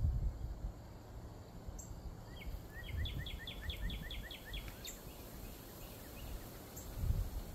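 A songbird sings a quick run of about a dozen repeated notes, roughly five a second, in the middle, with a few short high chirps before and after. Under it runs an uneven low rumble of wind on the microphone.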